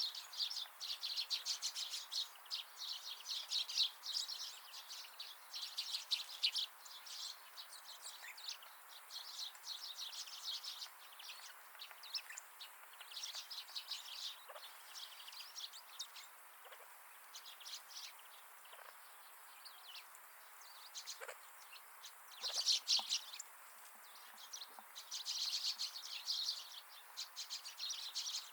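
Small wild birds chirping and twittering at a winter feeder: rapid, high-pitched chirps in busy bursts that die away and start up again several times.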